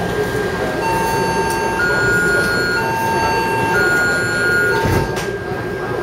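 Alternating two-tone electronic chime aboard a Taipei Metro C371 train, a lower and a higher note of about a second each sounding in turn about four times, over the car's steady running hum and a thin constant whine. A low thud comes just before the chime stops.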